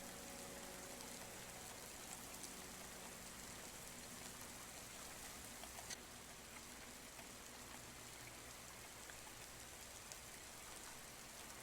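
Soft rain heard from inside a house: a faint, steady hiss with scattered light drop ticks, and one slightly louder tick about six seconds in.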